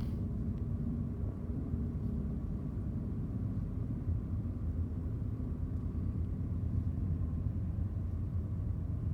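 Steady low rumble of a moving Ford car heard from inside the cabin: engine and road noise.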